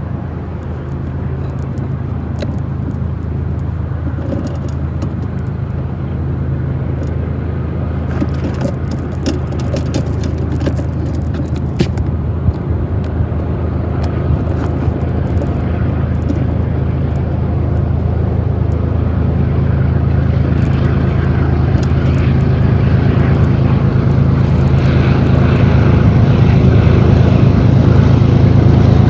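Diesel locomotives of a freight train running with a steady low engine drone, growing steadily louder as the train approaches. About a third of the way in there is a patch of sharp clicks.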